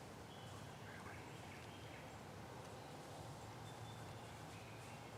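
Quiet woodland ambience with a few faint, high bird chirps in the distance.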